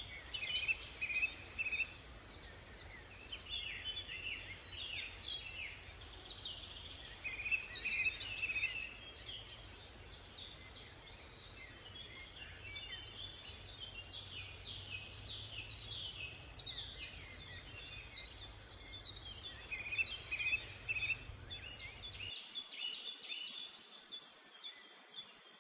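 Several small songbirds chirping and singing, with many short, overlapping notes over a steady background hiss. The low background rumble drops out suddenly near the end.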